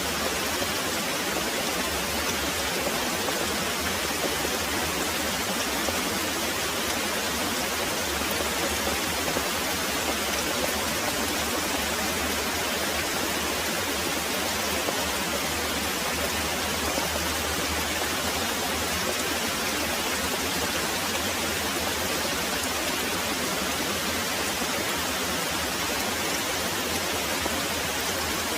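Very heavy rain pouring steadily, an even hiss with a low rumble underneath.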